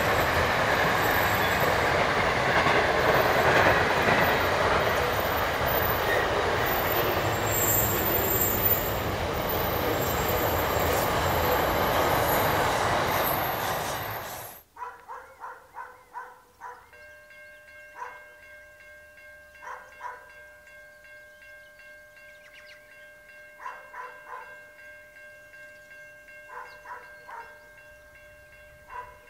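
Container freight train's wagons rolling past at speed, a steady rush and rumble of wheels on rail, which cuts off abruptly about halfway through. After it, much quieter: a few faint steady tones and short intermittent chirps.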